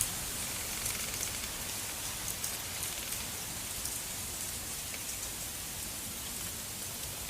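Snowstorm outdoors: a steady hiss of precipitation with many light, irregular ticks of falling snow striking surfaces, over a low rumble of wind on the microphone.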